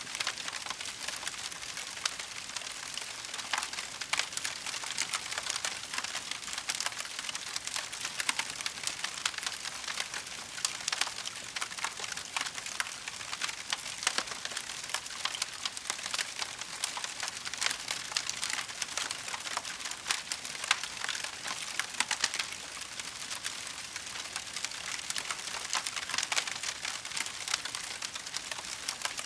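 Wood fire in a fireplace crackling steadily: a dense run of small pops and snaps, with a few sharper cracks here and there.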